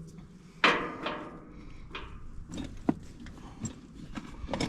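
Hands-on metal work on a wood chipper's access panel: a sharp metallic clank about half a second in that rings and scrapes on for a moment, then scattered lighter clicks and taps.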